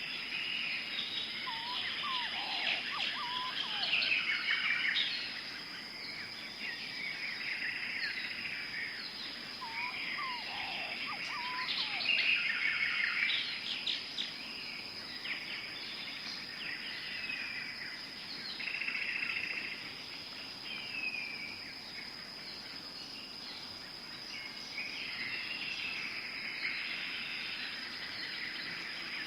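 Tropical forest ambience: many birds chirping and calling over a steady high-pitched insect drone, with a lower-pitched bird calling twice.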